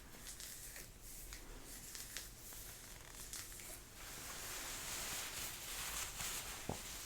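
Jacket fabric rustling and crinkling close to the microphone as a sleeve is rolled. The rustling is light with scattered small ticks at first, grows louder and denser about halfway through, and has one sharp tick near the end.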